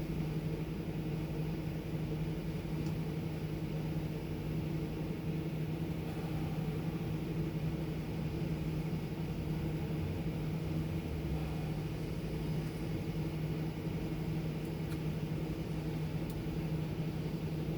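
Truck engine running with a steady, unchanging low hum.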